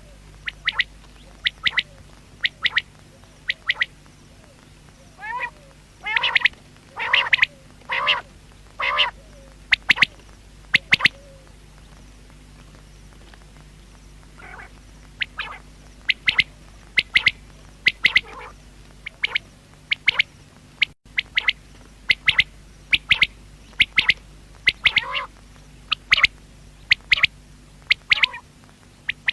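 Common quail calling: short, sharp notes in quick groups of two or three, repeated over and over, with a pause of a few seconds a little before halfway.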